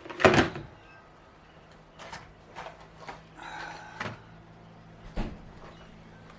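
Knocks, clunks and rattles of tackle gear and a compartment lid being handled while a boat's storage compartment is emptied, with the loudest clunk right at the start and a short rustle in the middle.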